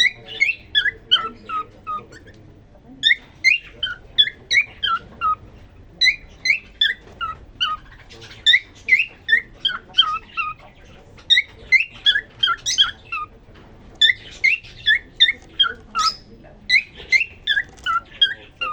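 Male cockatiel singing: quick runs of short, chirping whistle notes with brief pauses between phrases. It is his courtship song to a newly introduced female.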